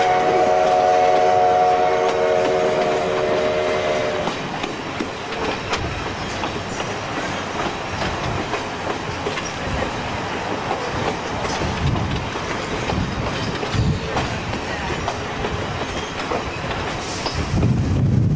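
Fillmore and Western passenger train under way, heard from a coach window: the locomotive ahead holds one long multi-note chord on its horn, which stops about four seconds in. The wheels' clickety-clack and rumble on the rails carry on, growing heavier near the end.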